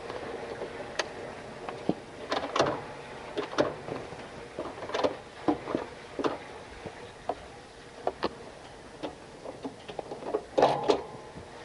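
Irregular metallic clinks and taps, some ringing briefly, from hand tools and exhaust parts being handled while a muffler is fitted to a motorcycle. There is a quick cluster of clanks near the end.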